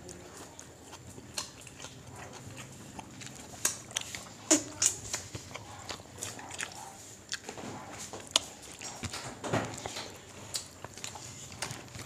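People eating fried fish and rice by hand, heard close up: chewing with scattered short, wet lip smacks and clicks, a few louder ones in the middle.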